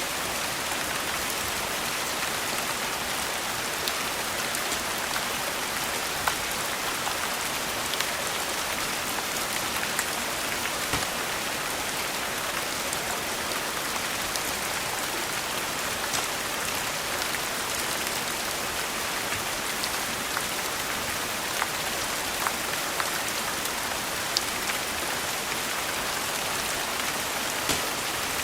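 Steady rain falling, an even hiss, with scattered sharp pops, the crackle of a wood fire in a fireplace.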